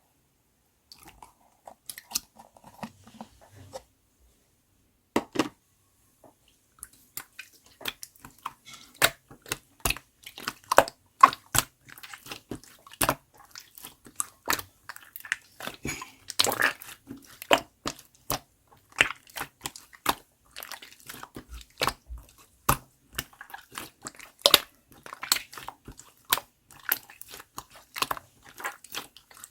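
Crisp crackling and clicking, many small sharp pops at an irregular pace, sparse at first and dense from about seven seconds in.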